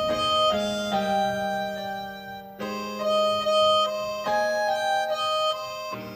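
Harmonica playing a slow instrumental intro of held notes over sustained chords, the notes changing every second or so.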